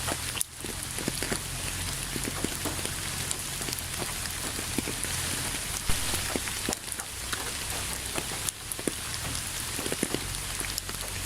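Steady rain falling, with many separate drops striking a surface heard as sharp little clicks over an even hiss.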